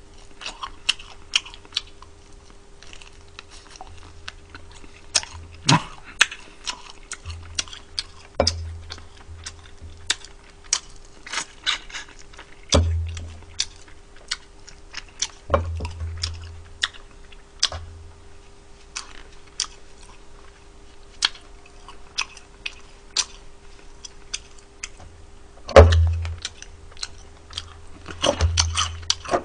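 Close-miked chewing and crunching of hard-fried native Korean chicken, with many sharp crisp clicks and a few heavier low thumps, the loudest near the end. A faint steady hum runs underneath.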